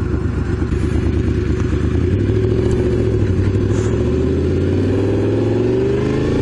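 Honda VFR750's V4 engine running under way, its pitch holding roughly level at first, then climbing steadily through the second half as the bike accelerates.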